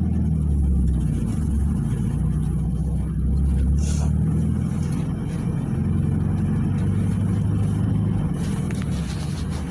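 PAZ 320402-05 city bus's diesel engine running while the bus is under way. The engine note rises about halfway through and drops back near the end, with a short hiss about four seconds in.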